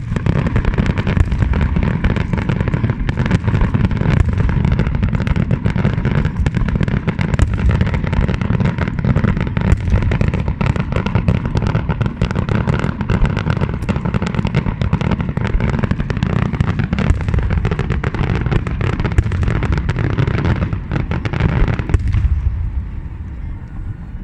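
Fireworks display going off in a dense barrage: rapid overlapping bangs and crackles over a continuous low rumble, easing off near the end.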